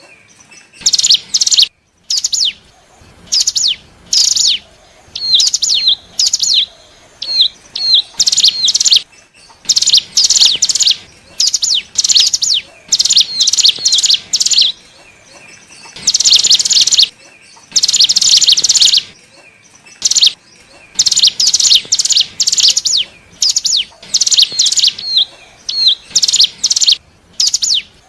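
Cigun (ciblek gunung) singing: repeated bursts of high, rapid chirping, each half a second to a second long, with short gaps between them. Around the middle there are a few clipped, downturned notes. It is a lure call used to draw in wild cigun.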